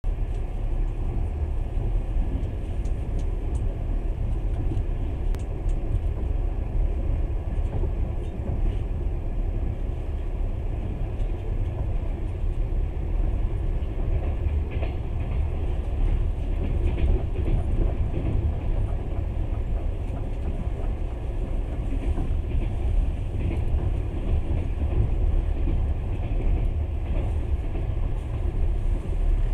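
Passenger train running along the track: a steady low rumble of the wheels on the rails, with only faint, irregular clicks above it.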